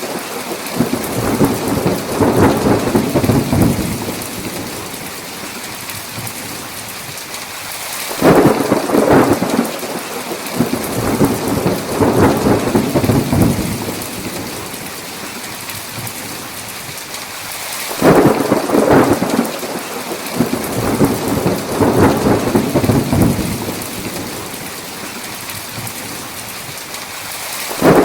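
Thunderstorm: steady heavy rain hiss with rolling thunder. One rumble fades out in the first few seconds, then fresh claps break about 8 and 18 seconds in, each rolling on for about five seconds, with another starting right at the end.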